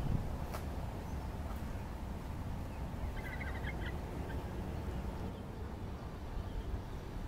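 A bird gives a brief call of rapid chirps about three seconds in, over a steady low outdoor rumble.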